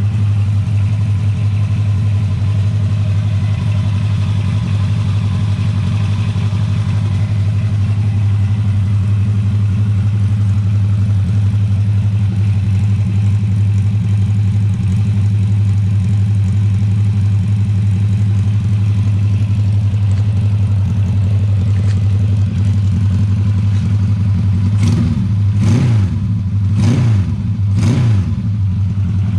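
Custom three-cylinder underbone motorcycle engine built on a Honda Star base, idling steadily with a low, even note. Near the end the throttle is blipped four times in quick succession, each rev rising and falling back to idle.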